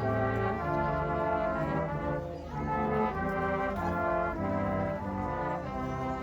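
Brass ensemble playing a slow tune of held chords, the chords changing about every half second.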